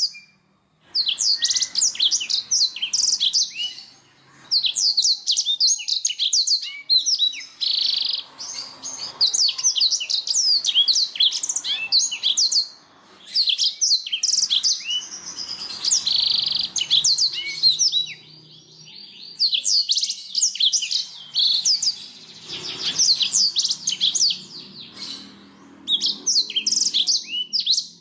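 Canary singing: long phrases of rapid chirps and trills, broken every few seconds by short pauses.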